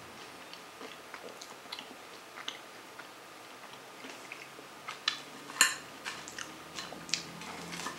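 Quiet chewing of a battered buffalo cauliflower bite, then a few light clicks of a metal fork against the dish, the sharpest about five and a half seconds in.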